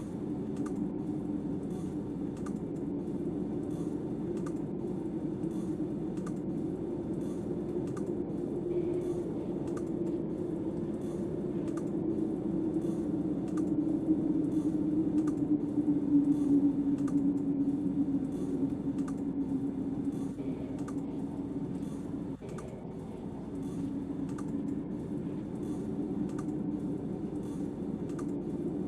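Steady storm wind with a swell of gusting about halfway through, and a faint regular ticking of roughly one tick every second or less.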